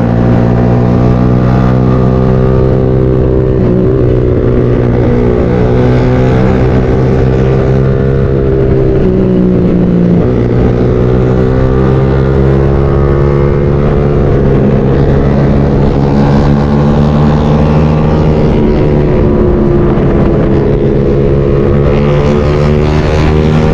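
Motorcycle engine running under way at fairly steady revs, its pitch rising and falling gently with the throttle.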